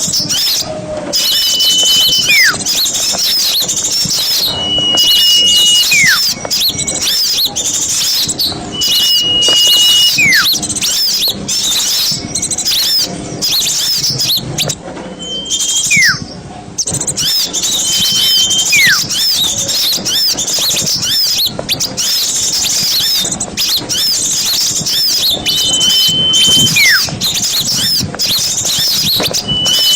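A chorus of small songbirds chirping rapidly and continuously in high, twittering notes. Over it, one call repeats every three or four seconds: a clear whistle held for about a second, then a quick falling slide.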